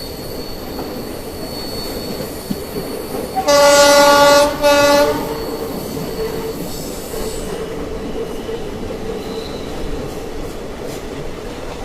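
Indian Railways train running steadily on the rails, its horn sounding about three and a half seconds in: a long blast, then a short one.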